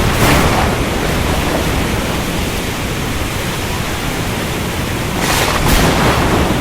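Ocean storm ambience: a steady rush of rain and surf, with a brief louder surge of noise about five seconds in.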